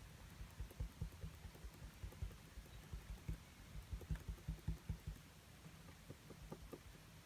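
Soft, irregular thumps of paint being tapped onto a small canvas, several a second, stopping about five seconds in, then a few lighter taps near the end.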